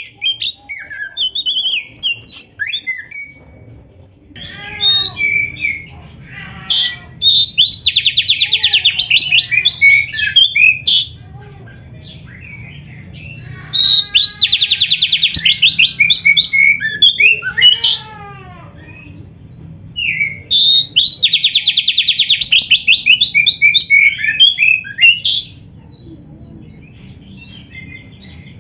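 Oriental magpie-robin (kacer) singing a varied, loud song in three long bursts, each built around a fast rattling trill, mixed with quick whistled notes and downward-sweeping calls. A low steady hum runs underneath.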